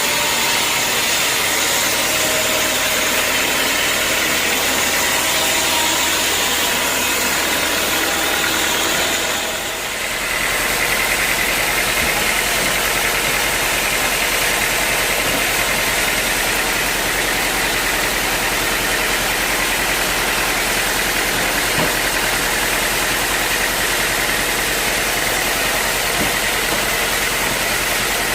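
Sawmill machinery running steadily, a dense mechanical noise like an engine. About ten seconds in it dips briefly, then settles into a steadier drone with a low hum.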